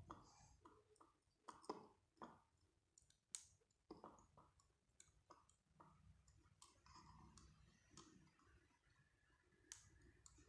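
Near silence with faint, irregular small clicks scattered through it, the sharpest about three seconds in.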